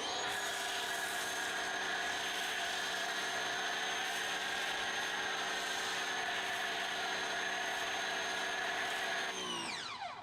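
Electric pressure washer motor running steadily with a hiss of spray as it drives a foam cannon, then winding down with a falling whine near the end.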